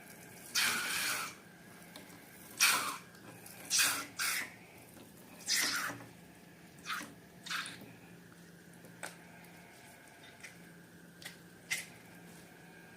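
Slime being squished and handled: a series of short wet squelches, louder and closer together in the first half, then fewer and fainter.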